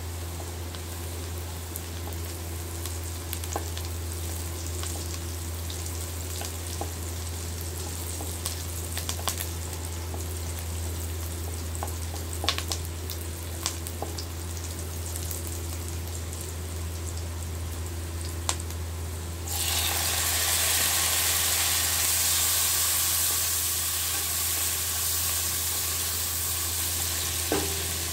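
Sliced onions frying in hot oil in a pan: a steady sizzle with scattered sharp pops and ticks from stirring with a wooden spatula. About two-thirds of the way in, the sizzle suddenly becomes much louder and stays loud as chopped tomatoes go into the oil.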